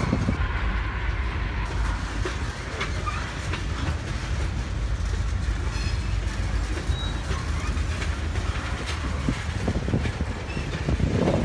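Freight train of tank cars rolling past, a steady rumble of wheels on rail with scattered clicks from the wheels.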